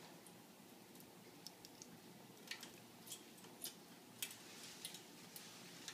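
African grey parrot making a string of short, sharp clicks, irregular and sometimes several a second, starting about a second and a half in over a quiet room.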